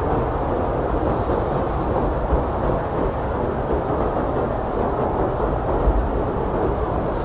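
Blizzard wind blowing hard and steadily, a dense low rushing roar with deep rumble underneath.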